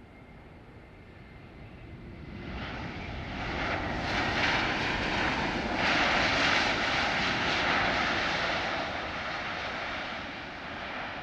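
Airliner's engines passing close by: a broad rushing noise that builds over a couple of seconds, is loudest in the middle, then slowly fades.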